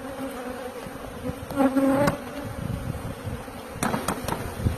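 Honeybees buzzing steadily, with one bee flying close and buzzing louder about one and a half seconds in. A few sharp clicks come near the end.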